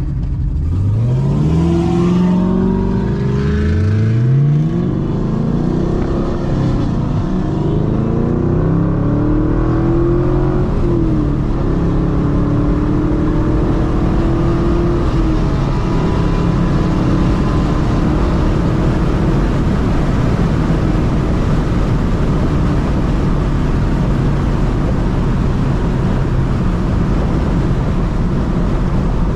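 Acura TL Type-S V6 with aftermarket camshafts, revved up twice in quick rising sweeps near the start. Its pitch then wavers up and down for several seconds before settling into a steady running note for the rest.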